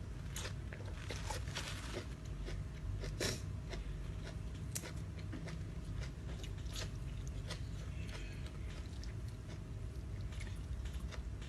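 A person chewing and biting close to the microphone, with irregular crisp crunches and mouth clicks, while eating a spicy salad of rice noodles and crispy squid.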